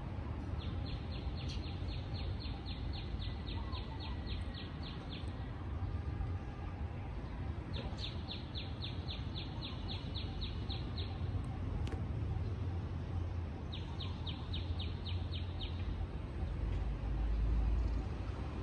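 A small bird singing runs of short, evenly spaced high chirps, about four or five a second: a long run, then a shorter one, then a brief one, over a steady low rumble.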